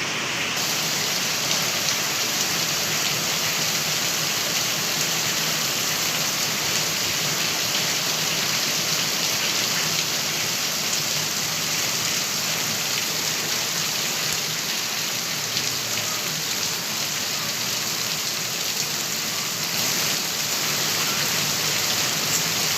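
Heavy rain falling steadily in an even, continuous hiss.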